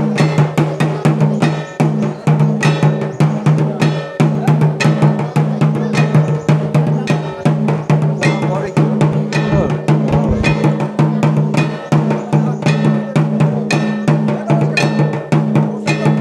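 Drums beating a steady, driving rhythm, with a clanking metal percussion instrument on the strokes and a steady low hum underneath.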